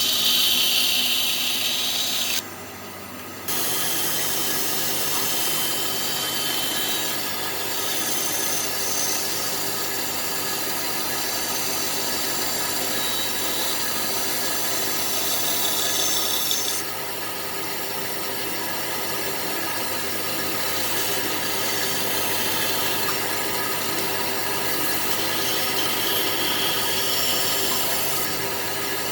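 A power tool working wood, running steadily. It breaks off briefly about two and a half seconds in, and its sound changes about seventeen seconds in.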